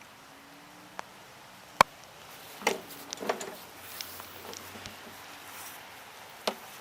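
A single sharp knock a little before two seconds in, then several lighter clunks and rattles and another knock near the end: hard objects being handled and set down.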